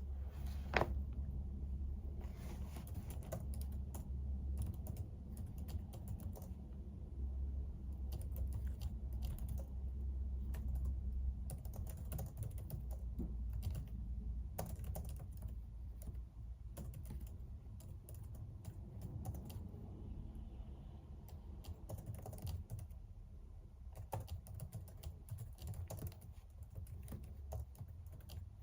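Typing on a computer keyboard: quick, irregular key clicks in runs with short pauses, over a steady low hum.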